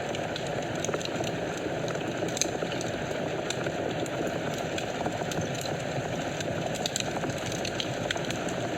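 Wood fire burning in a fireplace: a steady rush of flames with frequent small, sharp crackles and pops at irregular moments.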